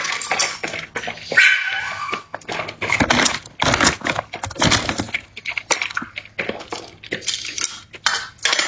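Dogs eating: many short crunching and clicking sounds of chewing, with brief whimpering.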